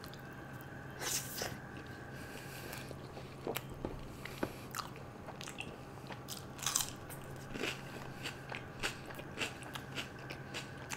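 Close-miked eating sounds of butter naan with butter chicken: wet chewing with irregular sharp smacks and clicks, over a faint steady hum.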